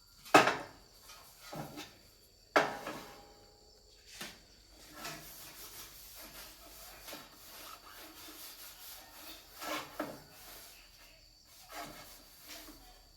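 Handling noises: a sharp knock about a third of a second in and another at about two and a half seconds, with smaller knocks and rubbing or scraping between.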